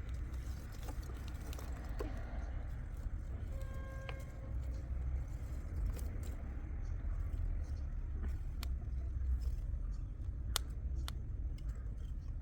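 Steady low rumble like a vehicle in motion, with scattered light clicks and rattles and a brief pitched tone about four seconds in.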